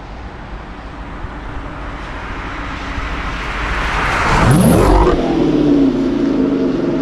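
2013 Dodge Charger R/T's 5.7-litre Hemi V8 accelerating past on a wet road, growing louder to a peak about four and a half seconds in with a burst of tyre hiss, its engine note dropping as it goes by and then carrying on away.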